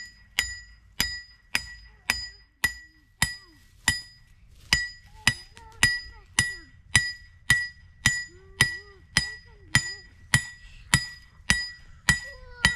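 Hammer striking a steel trap stake (the anchor), driving it into the ground: about two blows a second, each a sharp metallic clank with a bright ring.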